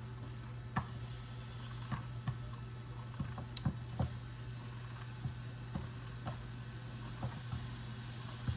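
Irregular light clicks and knocks, roughly one every half second, over a steady low hum.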